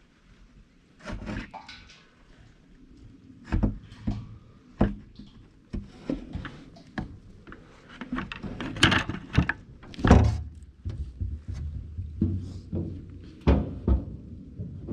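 Irregular knocks and clunks from handling hard objects during the hydraulic fluid top-up, about a dozen scattered through, the loudest two about 9 and 10 seconds in.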